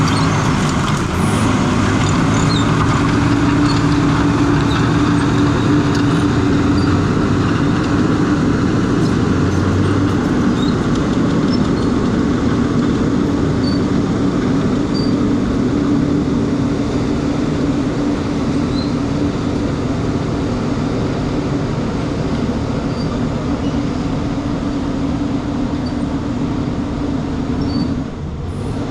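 Crawler bulldozer's diesel engine running steadily at work, with a steady whine held over the engine note.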